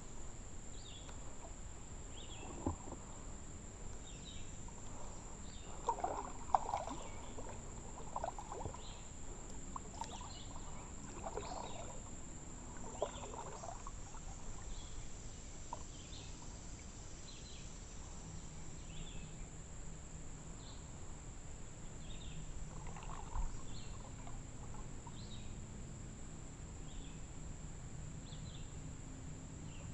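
Kayak paddle strokes splashing and dripping in the water, bunched in the first half, over a short high call repeating about once a second and a steady high-pitched insect-like tone.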